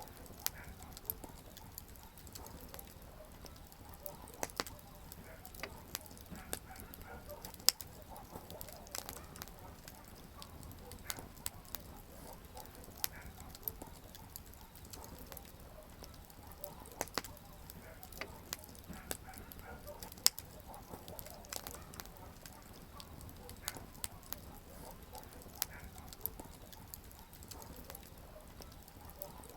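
Wood campfire crackling: irregular sharp pops and snaps, two much louder ones, over a faint steady low rumble of burning.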